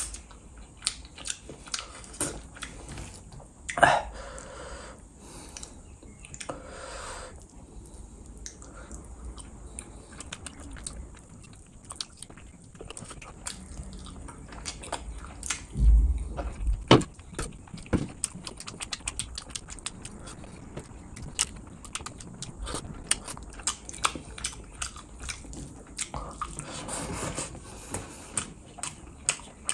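Close-miked eating of fish curry and rice by hand: steady chewing with many wet mouth clicks and smacks. A heavy low thump about halfway through.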